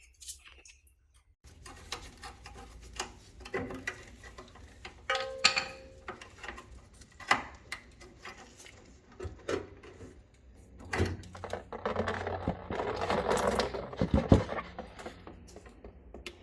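Hand-work noise while working on a car's fuel system: scattered clicks and knocks of tools and metal parts, with a denser stretch of scraping and rattling in the later part.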